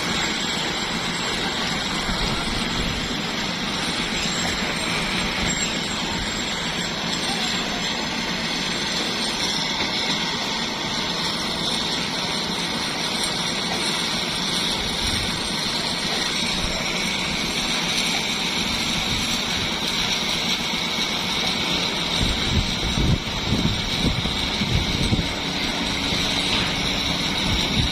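Engine of construction machinery running steadily during a concrete pour, with uneven low rumbling added from about 22 seconds in.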